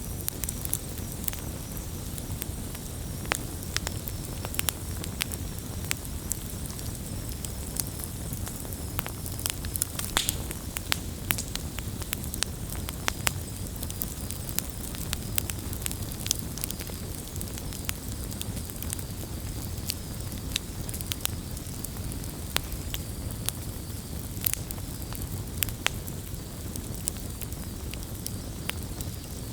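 Wood campfire crackling, with irregular sharp snaps and pops over a steady low rush.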